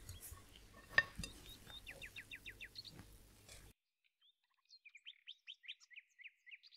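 A small bird chirping: two quick runs of short, falling chirps, about five or six a second. A single sharp click about a second in is the loudest sound.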